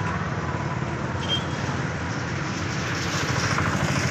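Steady road traffic noise: a continuous low rumble of passing vehicles, with a brief faint high tone about a second in.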